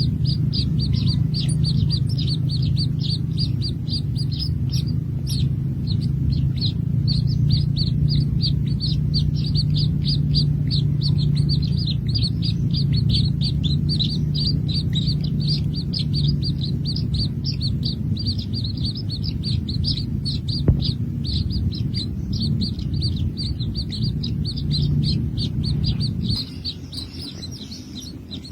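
Baby birds chirping continuously in quick, short, high chirps, about three or four a second, over a steady low rumble that fades out near the end.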